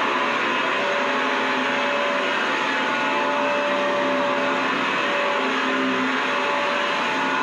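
Vacuum cleaner running steadily: a constant rushing hiss of motor and airflow, with a few faint steady tones in the hum.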